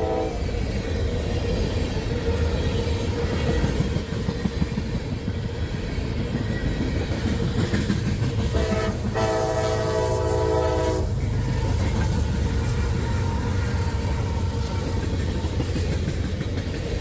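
Freight train of crude-oil tank cars rolling past with a steady low rumble and wheels clattering over the rail joints. A locomotive air horn sounds a chord of several notes for about two seconds near the middle, after a brief blast right at the start.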